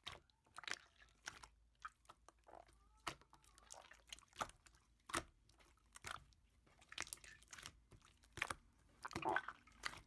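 Slime being squeezed and pressed by hand, making faint, irregular crackles, clicks and small wet pops.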